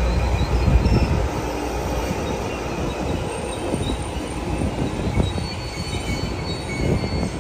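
Pacific Surfliner passenger train rolling through the station, the heavy rumble of its cars overlaid by thin, high-pitched wheel squeals that come and go at several pitches. The rumble is strongest in the first second.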